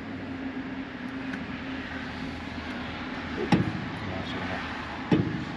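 A steady mechanical hum, like an engine running, with two sharp knocks about a second and a half apart near the end, the second the louder.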